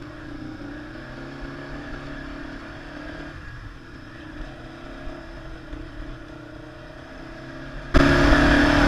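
ATV (quad bike) engine idling steadily; the sound becomes much louder near the end.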